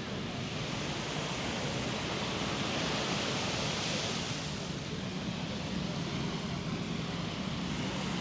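Waves washing onto a sandy beach: a steady rush of surf that swells about three seconds in and eases off again.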